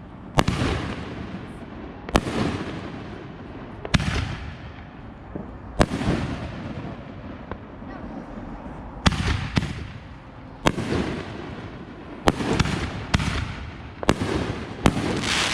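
Fireworks exploding in a string of sharp bangs, each trailing off in a rumble. The bangs come about every two seconds at first, then more often after a short lull near the middle.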